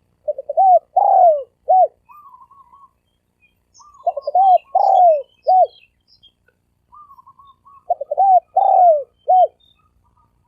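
A spotted dove cooing its song three times, a few seconds apart. Each phrase is a short run of low coos with a longer falling note in the middle, and a fainter quavering coo comes between the phrases.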